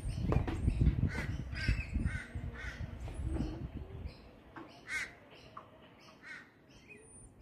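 Birds calling outdoors: about six short, repeated calls, most of them in the first three seconds and two more around five to six seconds in. A low rumble sits under the first few seconds, then fades.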